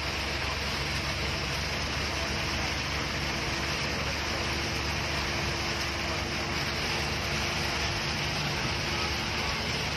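Steady road noise from a moving vehicle in rain: a constant low drone with an even hiss over it.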